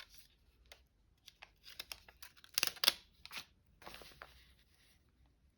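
Paper being handled in short, crisp rustles and clicks, with the loudest burst of crackling a little under three seconds in and another around four seconds.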